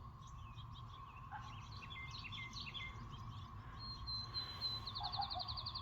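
Swallows twittering in many short, high chirps, with a fast-pulsing high trill starting about four seconds in, over a faint steady hum.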